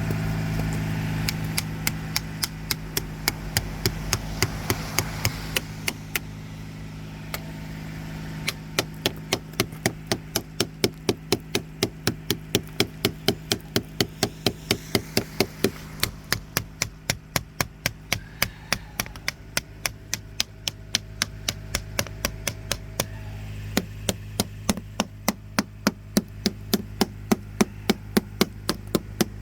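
A long, fairly even run of sharp knocks, about three a second, with a brief lull partway through, over a steady low hum.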